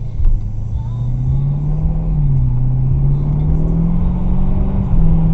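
Car engine and road rumble while driving, the engine note rising and dipping a little a few times.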